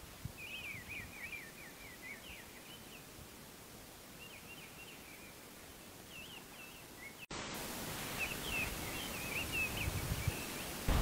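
Wild songbirds singing in woodland: short, quick chirping phrases, several times, over a faint outdoor hiss. About seven seconds in, the background noise abruptly becomes louder, with more birdsong over it.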